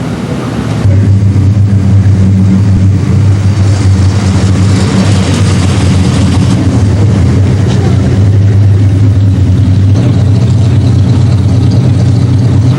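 A car engine running close by with a steady low, rumbling note, coming in suddenly about a second in and holding.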